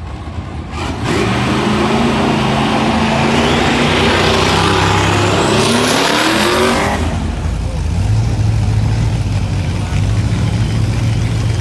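High-performance car engine accelerating hard: it comes in loudly about a second in, climbs in pitch to a peak near the seventh second and then falls away suddenly, leaving a steadier, lower engine drone.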